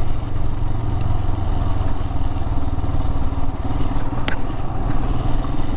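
Adventure motorcycle engine running steadily while riding, with a low, even hum and one short click about four seconds in.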